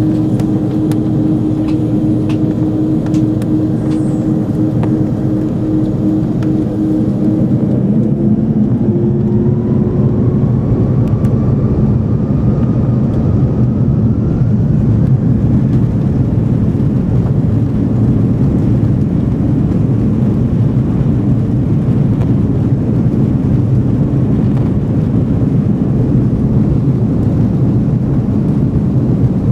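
Airbus A330-300 jet engines running with a loud low rumble. About a quarter of the way in, a whine rises steadily in pitch as the engines spool up to takeoff thrust. After that the heavy rumble continues steadily.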